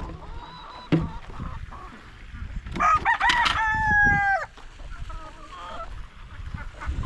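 A rooster crowing once, about three seconds in: a call of about a second and a half that holds its pitch and then drops away at the end.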